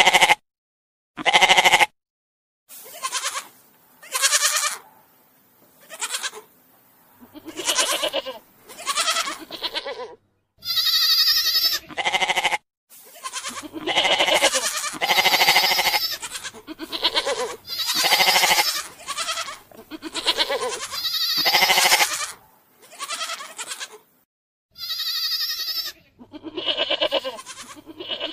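Goats bleating over and over: a string of separate calls, each about one to two seconds long, with short silent gaps between them.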